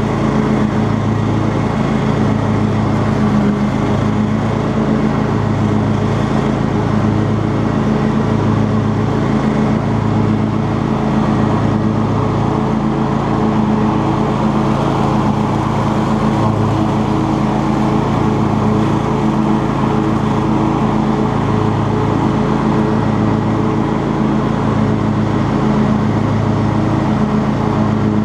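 Cub Cadet XT2 riding lawn tractor running steadily at constant speed while mowing, its engine holding an even tone.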